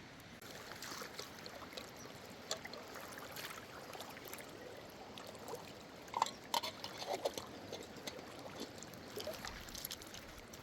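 Water trickling and splashing, with a cluster of sharper splashes a little past the middle.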